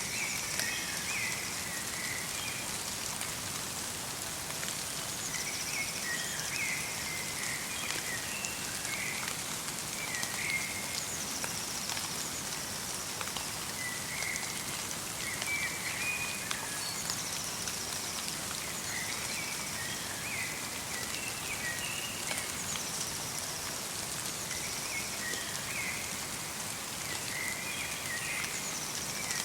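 Steady light rain pattering in a forest, with a small songbird calling short chirping phrases every few seconds throughout.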